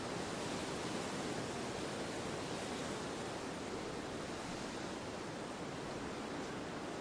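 Steady wind ambience: an even rushing noise with no gusts or separate sounds, easing slightly toward the end.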